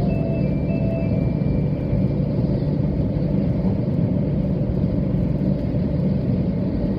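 700 series Shinkansen train running, a steady low rumble heard from inside the passenger car, with a few faint thin tones in the first two seconds.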